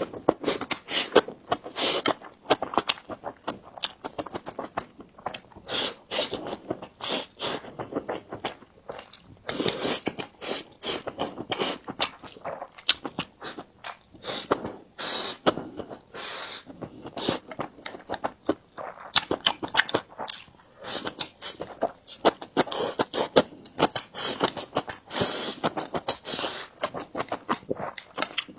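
Close-miked eating: chewing and mouth clicks coming thick and irregular, with no pause.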